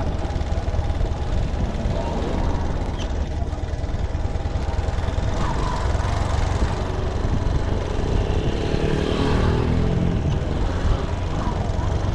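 Motorcycle running on the road, with a steady low rumble of engine, wind and tyres. Around eight seconds in, an engine note climbs in pitch and then falls away.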